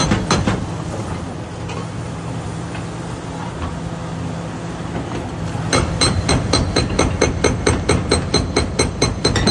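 Diesel excavator engine running steadily, then about six seconds in a hydraulic breaker starts hammering, sharp metallic blows about four a second with a high ringing.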